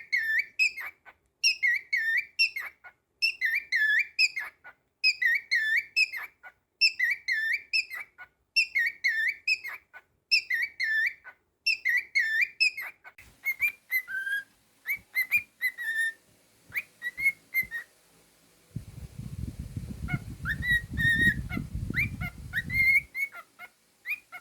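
Cockatiel whistling the same short phrase about nine times in a row, then breaking into scattered shorter whistle notes. A low rumbling noise comes in for a few seconds near the end.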